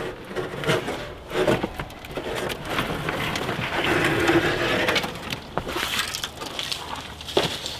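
An old, dry floor mat and mouse-nest debris being pulled up and handled, with a crackling, crunching sound full of small clicks that is busiest in the middle.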